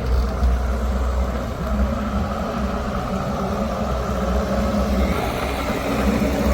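Heavy diesel engine of earth-moving or farm machinery running steadily with a low, even rumble.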